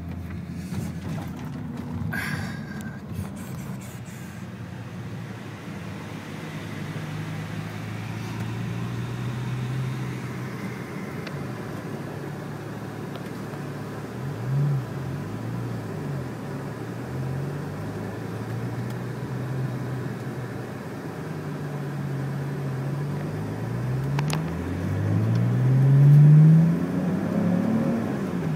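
BMW car engine idling, heard from inside the cabin. It is blipped once about halfway through, then revved several times near the end in quick rising-and-falling sweeps, the last ones the loudest.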